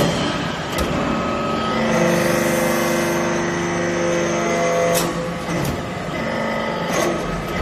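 Hydraulic shaving baler running: a steady machine hum and whine with several sharp clanks.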